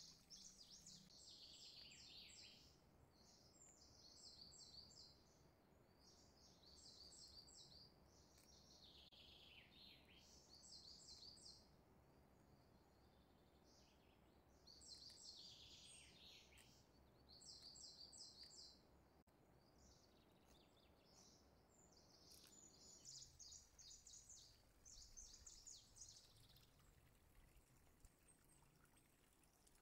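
Near silence with faint bird song: short bursts of high chirping every second or two, some phrases ending in falling notes.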